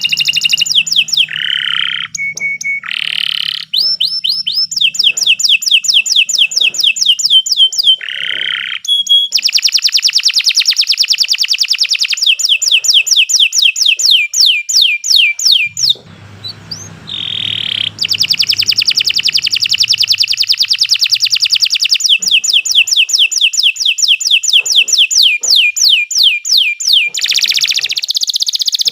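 Domestic canary singing a long, unbroken song of rapid trills, each trill a fast run of repeated falling notes. About two thirds of the way through, a brief lower, rougher phrase interrupts the trills before they resume.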